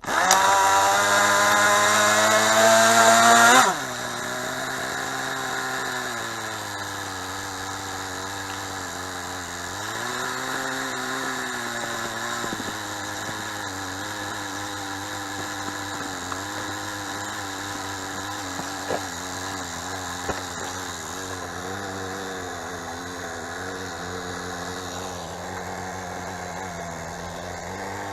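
Kyosho Nitro Blizzard's small nitro glow engine comes in suddenly and climbs in pitch for nearly four seconds. It then drops abruptly to a quieter, fast idle that wavers up and down in pitch.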